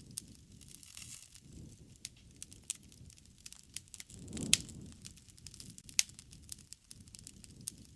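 Wood fire crackling, with irregular sharp pops over a low rumble of burning; the loudest pops come about four and a half seconds in and at six seconds.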